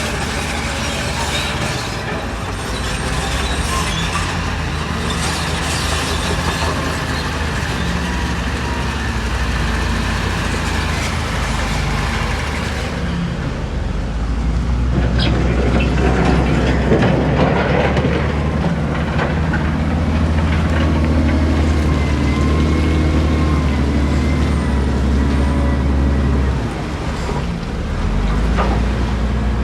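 Diesel engines of heavy construction machinery running under load, steady and loud, with a few sharp metallic knocks and thin squealing tones in the second half.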